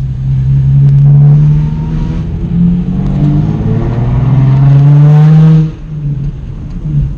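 Nissan 350Z's 3.5-litre V6 accelerating hard through a Borla aftermarket exhaust, the revs climbing in two pulls and dropping off suddenly near the end as the throttle is lifted. Its exhaust is a little loud.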